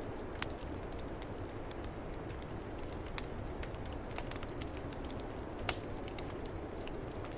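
Wood fire crackling with scattered sharp pops over a steady low rumble of storm wind. One pop late on stands out louder than the rest.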